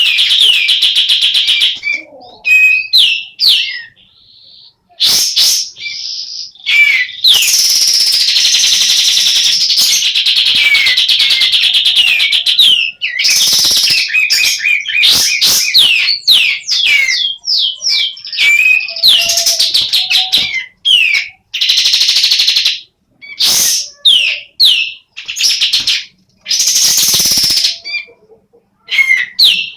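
Female kapas tembak bulbul calling in long, fast runs of sharp, high chattering notes, broken by a few short pauses; she is half in breeding condition (semi birahi).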